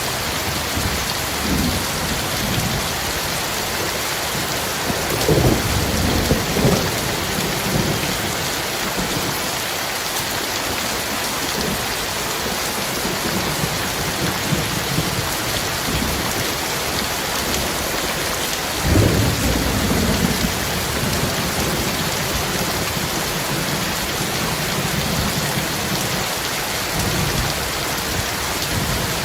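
Heavy rain falling steadily on a metal roof, with thunder rumbling twice, the louder rolls about a fifth and two-thirds of the way through.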